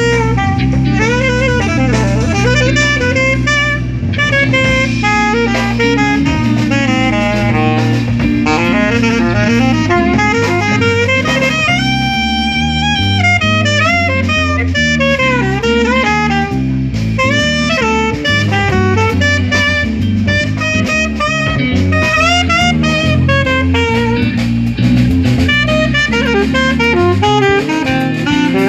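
Live jazz quintet playing: a saxophone takes a solo in fast runs, with one long held note about twelve seconds in, over a stepping bass line and drum kit.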